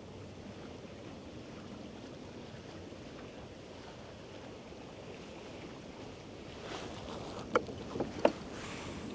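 Steady light wind and water noise, with two sharp knocks a little under a second apart near the end.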